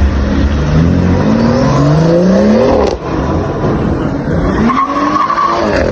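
Sports car engine accelerating hard, its pitch climbing steeply through one gear, cutting off briefly for an upshift about three seconds in, then climbing again in the next gear.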